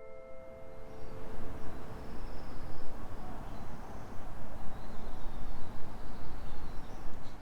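Outdoor ambience: a steady, uneven rumbling noise with faint high chirps over it, while the last ringing note of a mallet instrument fades out in the first couple of seconds.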